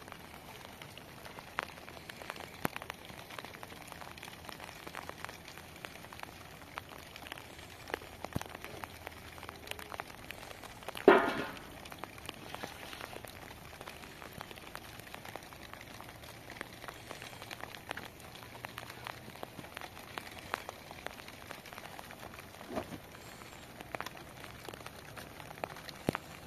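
Rain falling steadily, with scattered drops ticking on nearby surfaces. A single loud knock about eleven seconds in is the loudest sound, with a smaller one near the end.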